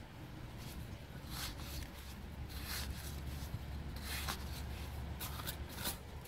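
Irregular short rustles and scrapes over a low steady rumble.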